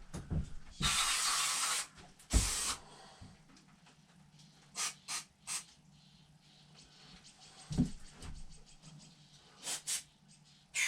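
Aerosol carburetor cleaner spraying in hissing bursts. There is a blast of about a second a little way in, a shorter one soon after, then a few quick puffs around the middle and again near the end.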